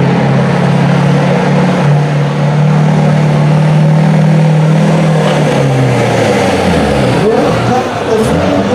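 Diesel pulling truck's engine running hard under load on a pull, its note holding steady and creeping up, then falling away and wavering about five to six seconds in as the load comes off.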